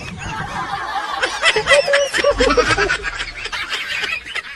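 Laughter: a person snickering in short repeated bursts.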